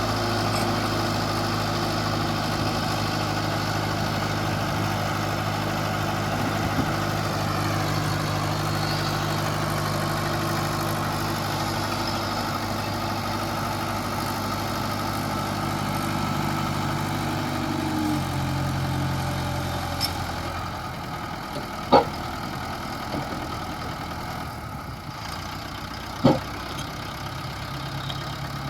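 Mahindra Arjun 555 tractor's diesel engine running steadily at idle, its speed dropping a step about eighteen seconds in. Two sharp knocks follow in the last third.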